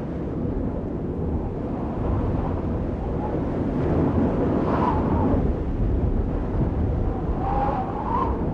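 Audience applauding and cheering, with a few voices calling out over the clapping.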